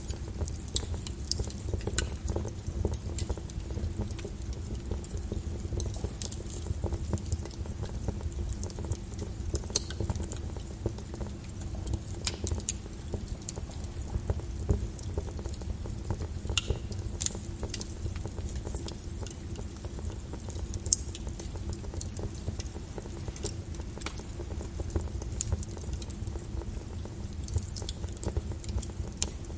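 Fireplace fire crackling, with irregular sharp pops and snaps over a steady low rumble of flame.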